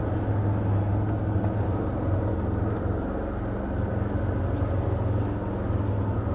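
Can-Am Outlander ATV engine running steadily at an even, low pitch, with no revving.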